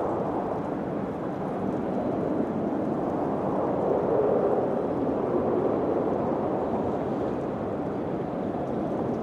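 Wind blowing steadily in a low rushing hiss, swelling and easing in slow gusts, with a stronger gust about four seconds in.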